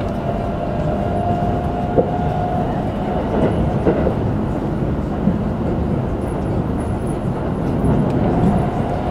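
Keikyū 2100 series electric train running at speed, heard from inside the car: a steady, dense rumble of wheels on rail with a few sharp clicks over rail joints, and a faint steady whine in the first few seconds.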